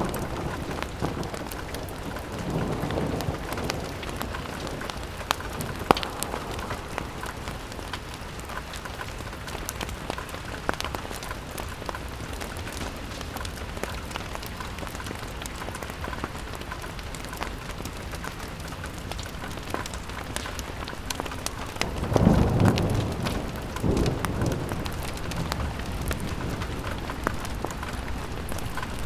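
Rain pattering steadily on a window with a fire crackling. Low rumbling swells rise near the start and again about 22 seconds in.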